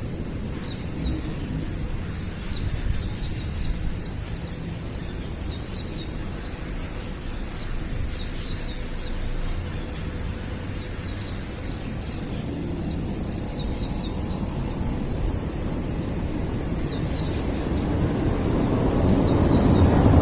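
Wind buffeting the microphone as a low rumble that grows stronger near the end, with small birds chirping in short, scattered notes.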